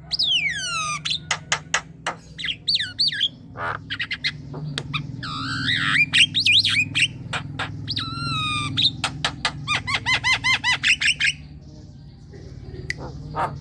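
Javan myna (jalak kebo) singing in full voice: a varied run of whistles, sharp clicks and harsh notes, opening with a long falling whistle and building, past the middle, to a fast string of repeated notes before a short lull near the end.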